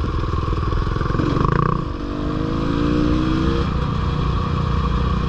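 Dirt bike engine running while being ridden; about two seconds in the revs drop, then build steadily again.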